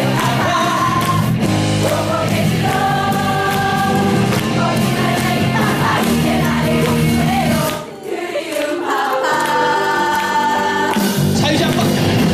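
Live song: male voices singing together in harmony over band accompaniment, holding long notes. The low accompaniment drops out for a moment about eight seconds in, then comes back under the voices.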